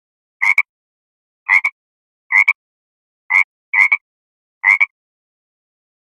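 A duck quacking: six short, sharp quacks, each doubled, spaced irregularly about half a second to a second apart.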